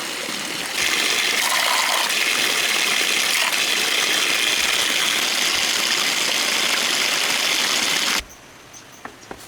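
Rushing water, a steady hiss that gets louder about a second in and then cuts off abruptly near the end, leaving quiet with a few small clicks.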